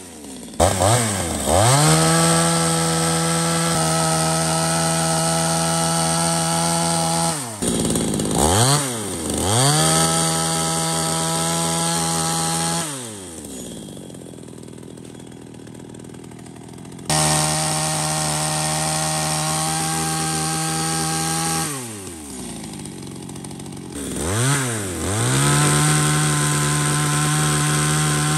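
Small restored top-handle gasoline chainsaw revving up and cutting wood at full throttle, then dropping back to idle between cuts. This happens four times, each burst starting with a quick rise in pitch and ending with the pitch falling away, with the longest idle in the middle.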